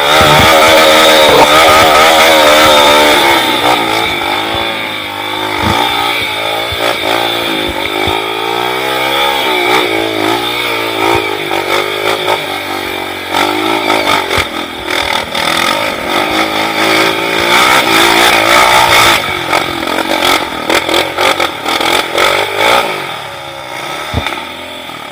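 Dirt-bike engine revving on an off-road trail, its pitch rising and falling again and again as the rider works the throttle, with clattering over rough ground in the second half; it fades near the end.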